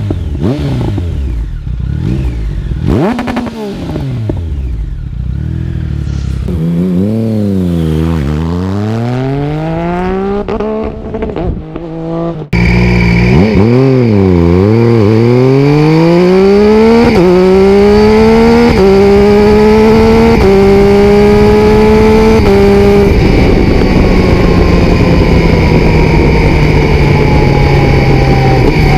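2016 Triumph Speed Triple R's inline-three engine through an Arrow full titanium exhaust with the baffle removed: it revs up and down with pops and crackles. Partway through it gets suddenly louder, pulls hard through about four quick-shifted upshifts, each a sudden step down in pitch, and then settles to a steady run with slowly falling revs.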